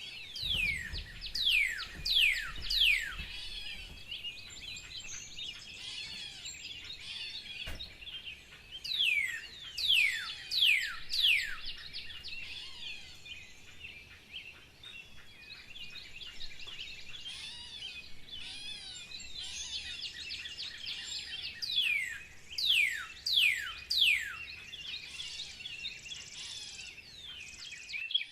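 Forest birdsong: several birds chatter and twitter together without a break. Three times, one bird gives a loud run of three to five clear whistles, each sweeping quickly down in pitch.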